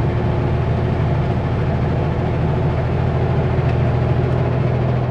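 Kenworth W900L semi truck's diesel engine droning steadily under way, with road noise; the low engine note drops away right at the end.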